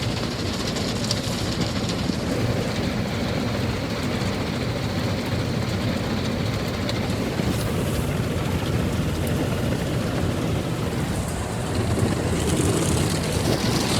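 Spinning cloth brushes of a Ryko Soft Gloss MAXX 5 soft-touch car wash scrubbing over the car, heard from inside the cabin as a steady low washing noise. A hissing water spray grows louder near the end.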